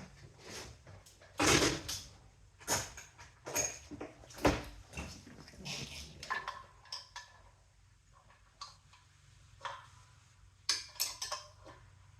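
Metal tools and hardware clanking and clicking irregularly as a nut is tightened down on the bolt that holds the flywheel, with a brief metallic ring a little past halfway.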